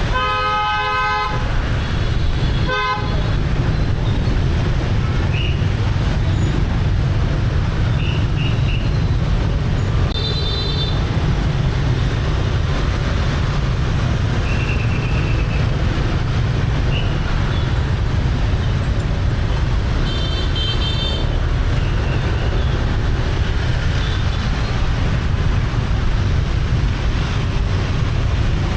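Heavy street traffic heard from a moving motorbike: a steady low rumble of engines and road, with vehicle horns honking. There is a long honk at the start, a short one about three seconds in, and brief beeps around ten and twenty seconds in.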